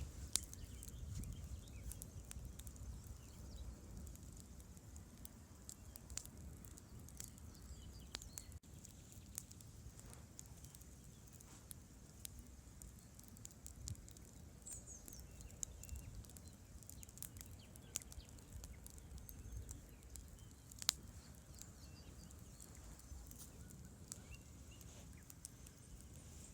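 Campfire crackling with irregular sharp pops, one louder snap about three-quarters of the way through, over a low steady rumble of a river flowing.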